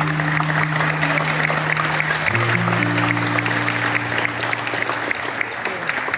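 Audience applauding, over background music of held chords that change about two seconds in.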